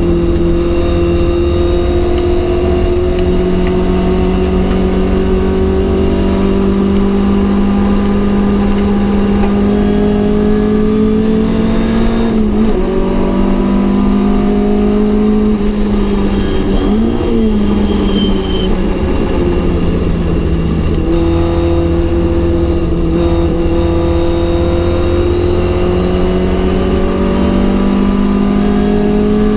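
Mk.1 Ford Cortina GT's four-cylinder engine racing under load, its note climbing slowly through a long pull. Near the middle it dips and wavers twice, then climbs again.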